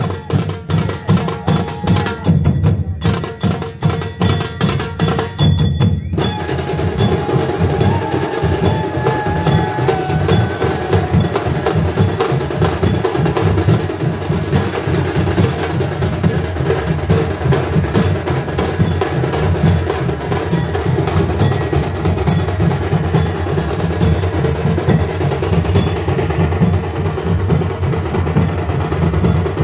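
Drums beaten in a fast, dense rhythm, with short breaks in the first few seconds; about six seconds in, the playing becomes continuous and a held melody note joins it.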